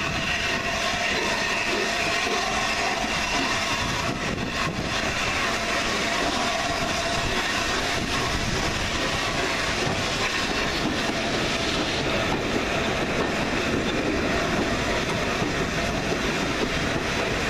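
Steam-hauled passenger train moving slowly, heard from an open coach window: a steady running noise from the coaches' wheels on the track.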